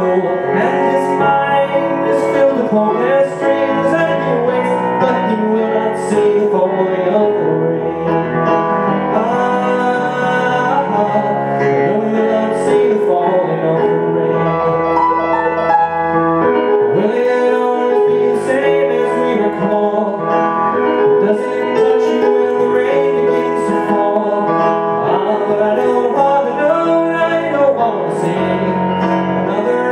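Piano music: a pop ballad played steadily on piano, with chords and melody going on without a break.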